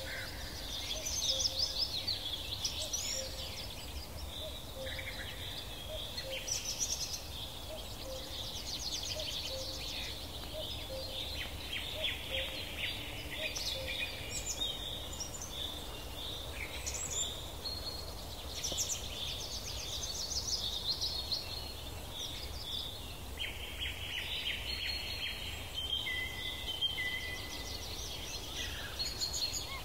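Several wild songbirds singing and calling outdoors, a busy mix of trills and chirps throughout, over a steady low background rumble.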